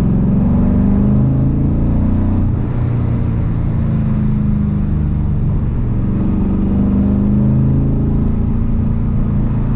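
LS V8 engine in a BMW E46 running through its new custom exhaust while driving, a steady low drone whose pitch slowly rises and falls several times with the throttle. The exhaust note is fairly quiet and smooth.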